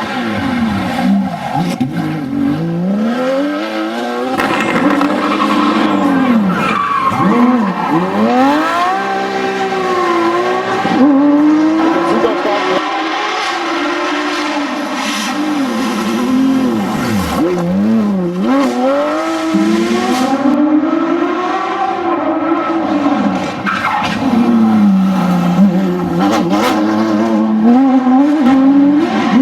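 Porsche 911 GT3 RS flat-six engine driven hard on a rally stage, revving up and falling back again and again through gear changes and lifts, with some tyre squeal.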